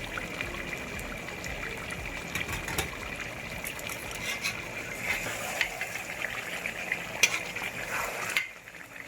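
Chicken and whole spices frying in oil in a pot, a steady sizzle with a spoon clicking and scraping against the pot as it is stirred. The sound cuts off suddenly about eight seconds in.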